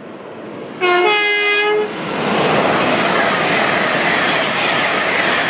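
LNER Class 801 Azuma train sounding its two-tone horn about a second in, a short lower note then a longer higher one. Then it passes at speed with a loud, steady rush of wheels and air.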